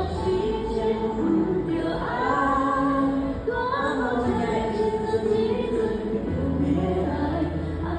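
A woman singing a slow pop ballad over a backing track, her melody held on long notes above steady bass notes.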